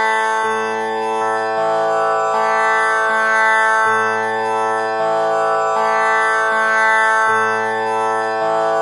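Tanpura drone tuned to A, sounding steadily with many overtones. Its strings are plucked one after another in a cycle that repeats about every three and a half seconds.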